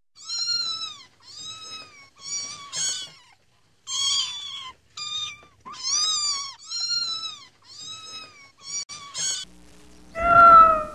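Kitten mewing over and over: about ten short, high-pitched mews, each rising and then falling in pitch, with brief gaps between them. Near the end a louder, lower, drawn-out wavering sound begins.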